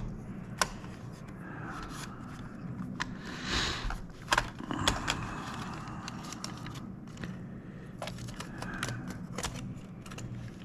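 Plastic parts of a joystick being handled and worked over one another during disassembly: scattered light clicks and scrapes, with a longer scrape about three and a half seconds in.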